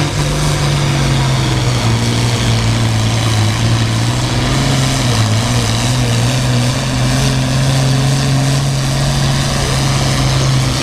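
International Harvester 966 pulling tractor's engine running hard under full load during a pull, a loud, steady engine note with a slight dip in pitch about halfway.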